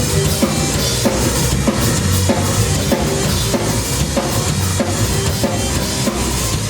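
Live rock band playing an instrumental stretch between vocal lines: drum kit keeping a steady beat with cymbals, over bass guitar.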